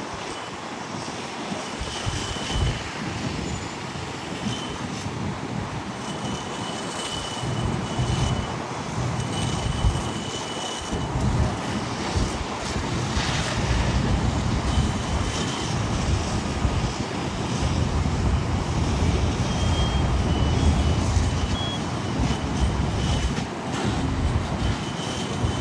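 Wind buffeting the microphone in gusts over a steady outdoor rumble, with a few faint, brief high beeps now and then.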